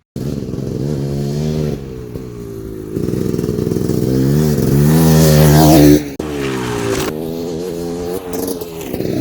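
Dirt bike engine revving hard, its pitch climbing and falling as the throttle is worked. It is loudest about five to six seconds in, then drops off abruptly before picking up again.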